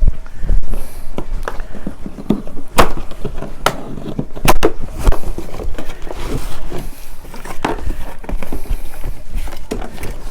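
Cardboard shipping box and packaging being handled and opened: a run of irregular sharp knocks and thumps with rustling in between.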